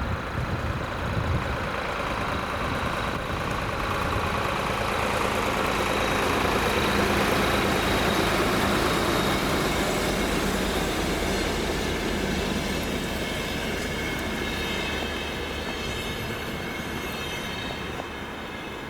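Train passing on the rails: its running noise grows louder to a peak about seven seconds in, then slowly fades, with thin high-pitched tones above it in the later part.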